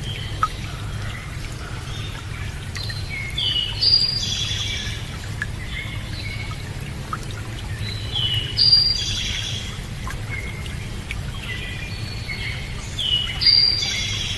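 A songbird repeating the same short phrase of quick stepped notes three times, about every five seconds, over a steady low rush of running water.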